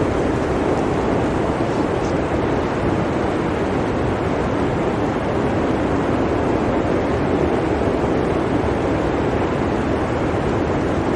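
Blizzard wind blowing steadily, an even wash of noise without distinct gusts.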